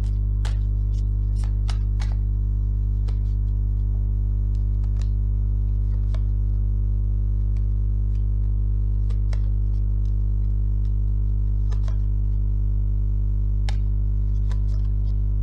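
Tarot cards being drawn and laid down: about a dozen light clicks and taps scattered irregularly over a steady low drone.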